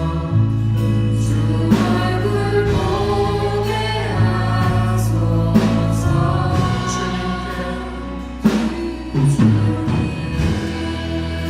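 A live church praise band playing a worship song with group singing: sustained chords over a steady bass line, with drum hits now and then.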